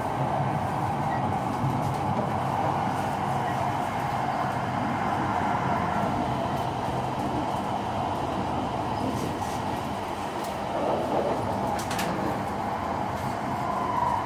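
Joetsu Shinkansen train running at speed, heard inside the passenger car: a steady rumble and rush of running noise, with a few light clicks near the end.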